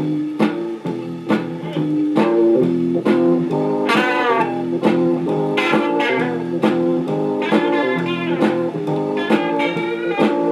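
A 45 rpm record of an early-1960s instrumental blues/R&B tune playing through a vintage RCA 45 EY2 record player, with electric guitar and organ over a steady beat.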